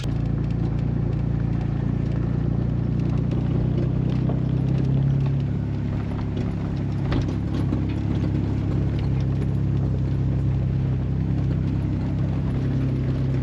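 Jeep Wrangler driving slowly on a gravel road: a steady low engine drone with light crunching and clicks from the tyres, and a single sharper knock about seven seconds in.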